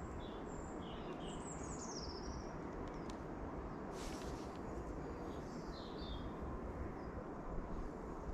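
Small songbirds chirping and twittering: a few high chirps and quick phrases in the first couple of seconds and again around six seconds in, over a steady low outdoor rumble, with one short click about four seconds in.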